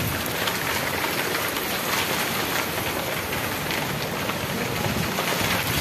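Heavy rain falling steadily on a concrete rooftop terrace, a constant even downpour.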